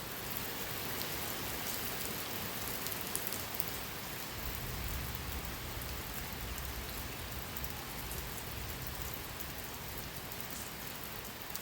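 Steady hiss of light rain, with scattered faint drop ticks.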